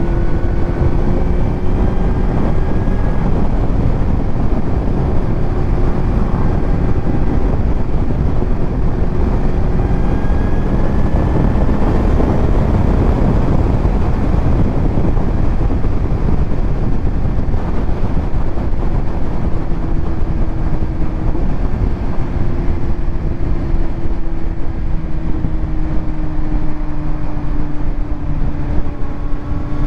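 Kawasaki Z900 inline-four engine running through a titanium Arrow exhaust while riding, with wind noise on the microphone. The engine note rises briefly about ten seconds in and eases slowly down over the last ten seconds.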